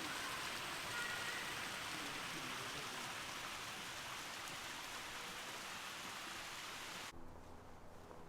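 Steady hiss of running, splashing water, which cuts off abruptly about seven seconds in.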